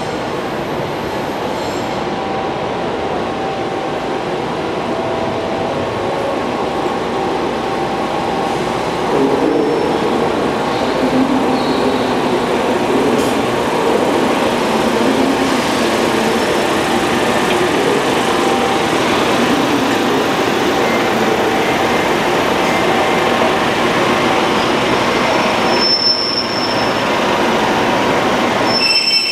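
Class 144 Pacer diesel multiple unit coming along the platform, its underfloor diesel engines and wheels on the rails growing louder as it comes close. Thin, high wheel squeal sounds from the curve, strongest near the end.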